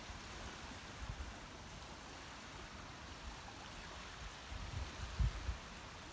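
Faint, steady rushing of outdoor ambience, like running water, with a few low bumps a little before the end.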